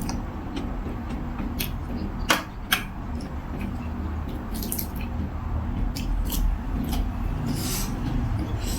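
A person eating noodle soup close to the microphone: wet chewing and slurping with small clicks throughout, and two sharp, louder clicks a little over two seconds in.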